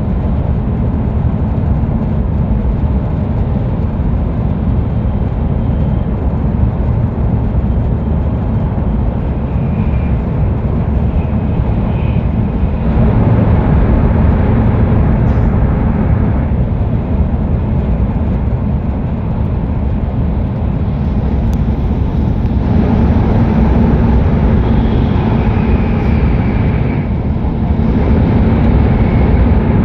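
Hokuriku Shinkansen train running at speed, heard from inside the car: a steady low rumble of wheels and rushing air that swells and eases several times.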